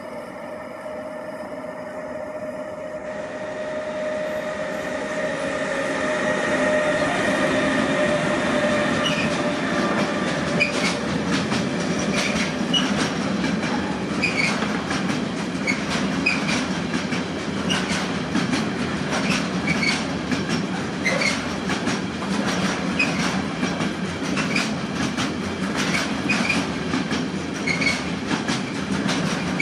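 A Bombardier TRAXX class 186 electric locomotive hauls an intermodal freight train of semi-trailers on pocket wagons past, the noise growing as it nears. The wagon wheels then rumble steadily, clicking over rail joints with short squeals.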